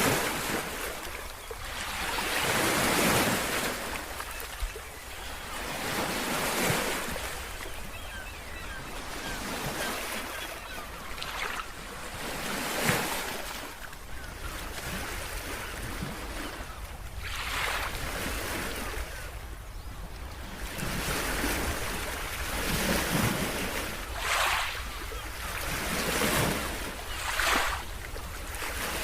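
Ocean waves breaking on a shore, each surge swelling and washing back every few seconds over a steady low rumble of surf.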